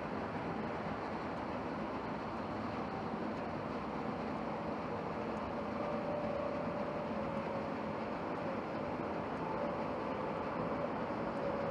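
Jet engines of a Boeing 787-8 Dreamliner airliner running, a steady rumble and hiss with a faint whine growing slightly louder from about six seconds in.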